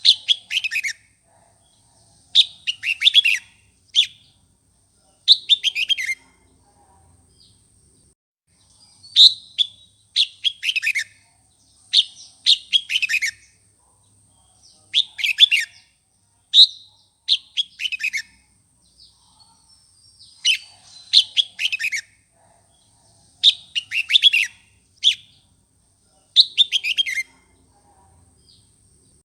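Red-whiskered bulbul singing a fired-up song: short, bright, warbling phrases repeated every second or two.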